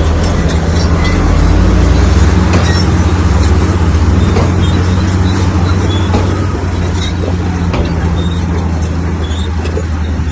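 Bulldozer's diesel engine running hard under load, working louder from about a second in and easing off after about six seconds, with scattered metallic clanks and clicks of the tracks and stone.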